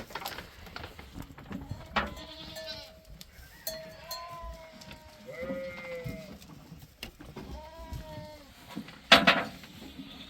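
Goats bleating, several separate calls one after another. A short, loud burst of noise comes near the end.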